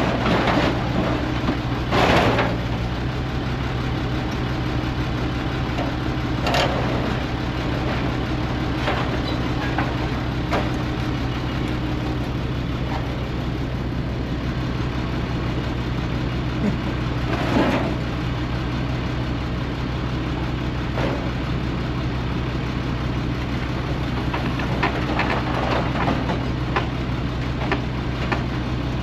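Truck engine running steadily, a low even drone, with a few short knocks or clunks over it.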